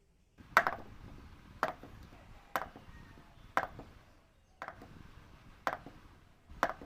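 Seven chopping strikes at about one a second, each a sharp crack with a short tail: a small blade striking a miniature tree.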